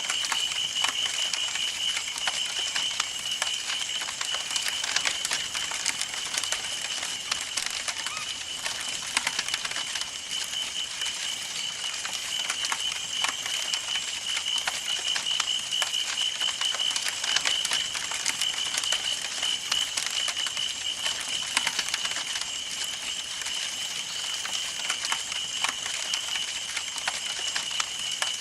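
Campfire burning, crackling with dense, irregular small pops and snaps over a soft hiss. A steady, high pulsing tone runs underneath.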